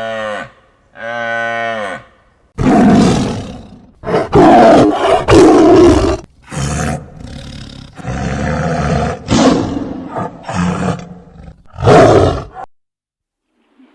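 Cow mooing twice, then a big cat roaring and growling in a run of loud, rough calls for about ten seconds.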